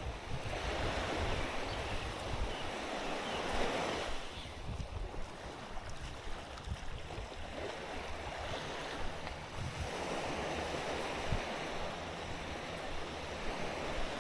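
Small waves washing onto a beach, coming in swells a few seconds apart, with wind buffeting the microphone.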